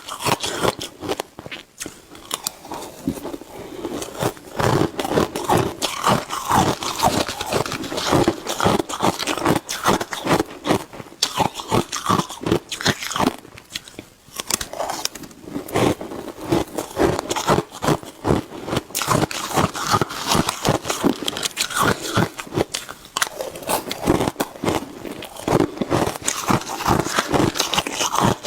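Shaved ice being bitten and chewed close to the microphone: a continuous run of crisp crunches and crackles, fast and irregular.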